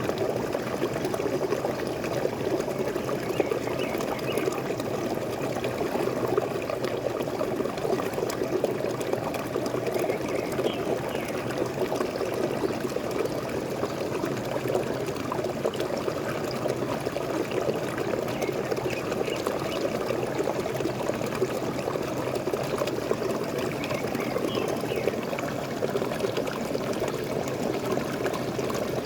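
Waterfall water pouring and splashing steadily, with a few faint short chirps now and then.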